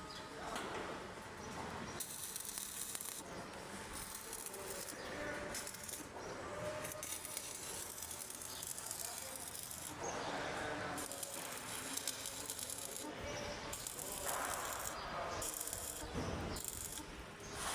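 Electric arc welding: the arc crackling and sizzling in stretches that swell and fade as the weld runs.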